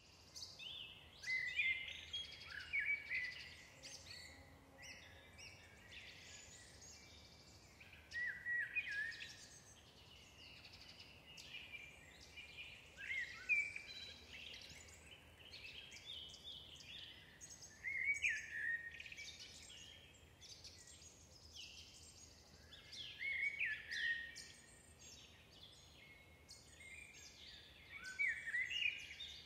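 A songbird singing short phrases of quick, gliding chirps, repeated about every five seconds, over faint steady background hiss.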